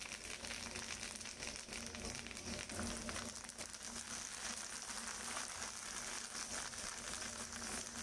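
Dried red chillies and curry leaves sizzling and crackling in hot oil in an iron kadai, stirred with a metal spatula.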